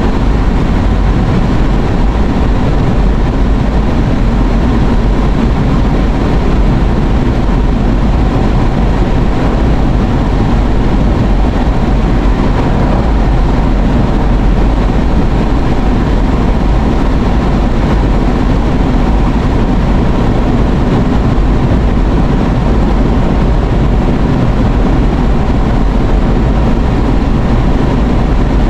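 Steady road and engine noise heard from inside a moving car's cabin, a constant low rumble.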